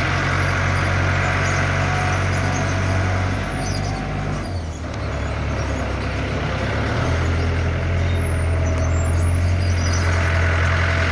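Motor vehicle engine running with steady road noise, a low even hum; the engine note drops about four and a half seconds in and picks up again around seven seconds.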